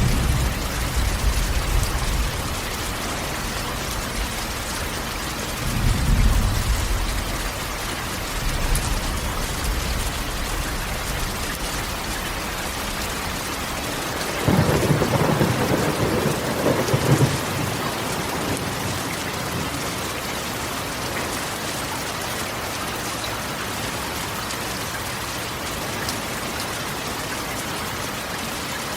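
Steady heavy rain drumming on a corrugated metal roof, with rolls of thunder rumbling several times; the loudest thunder comes about halfway through.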